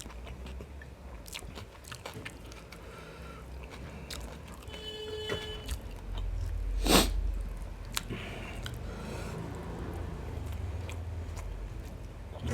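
Close-up chewing and mouth sounds of someone eating biryani with mutton gravy, with scattered small smacks and clicks. There is one louder, noisy burst about seven seconds in.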